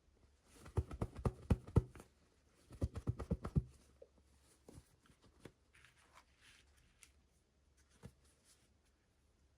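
Hands handling small toy packaging: two quick runs of light knocks and taps about a second apart, then faint rustling and a single click near the end.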